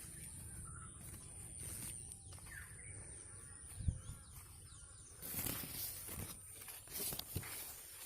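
Rural outdoor ambience with a low rumble, a few faint bird chirps near the start and about two and a half seconds in, rustling around five and a half and seven seconds in, and two short low thumps.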